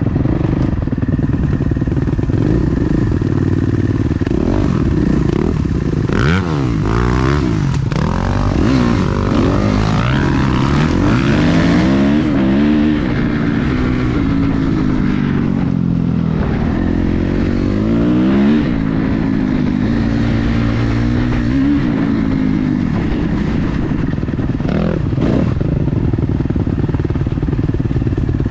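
Dirt bike engine running under riding load, its pitch rising and falling again and again as the throttle is worked.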